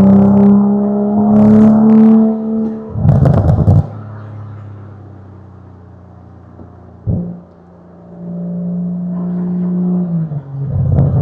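Toyota Supra MK5's aftermarket titanium exhaust under acceleration, its note climbing slightly, then crackling loudly as the throttle is lifted about three seconds in. After a quieter stretch with a single sharp pop, the engine pulls again and the note drops, with more crackles near the end.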